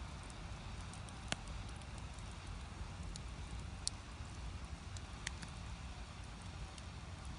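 Firewood burning in a traditional Korean agungi firebox: a steady low rush with scattered sharp crackles and pops, the loudest about a second in and near four seconds.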